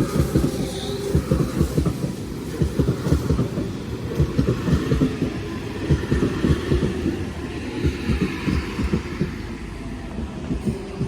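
Central Coast H set (OSCAR) electric train arriving at the platform: its wheels clatter over the rail joints in a rapid, irregular run of low thumps. The clatter eases and thins out toward the end.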